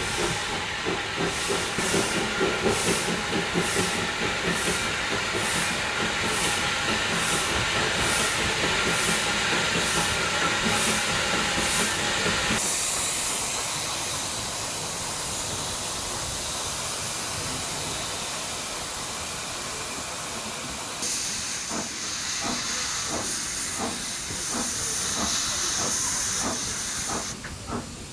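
Steam locomotive working, with hissing steam and an even beat of exhaust chuffs about three every two seconds. After a sudden change about twelve seconds in there is steady steam hiss, and a louder, higher hiss starts about twenty-one seconds in and stops near the end, with a few light knocks under it.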